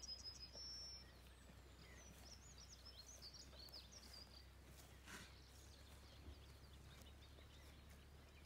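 Near silence: faint songbird chirps now and then over a low steady rumble.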